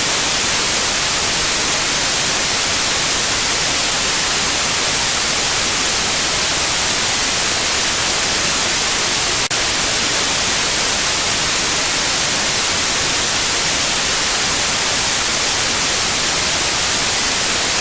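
Steady synthetic white noise, an even hiss across the whole range, used as tinnitus sound therapy. A single brief click comes about halfway through.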